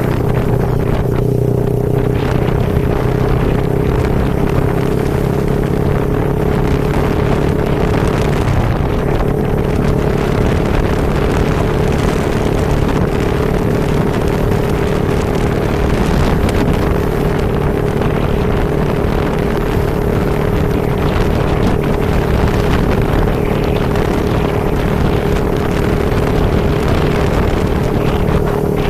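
Motorcycle engine running at a steady speed under heavy wind noise on the microphone, with a constant hum.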